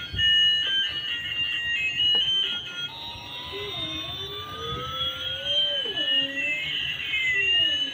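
Electronic sound effects: rapid high beeping tones that switch pitch, then a long rising sweep and a long falling sweep that cross near the end.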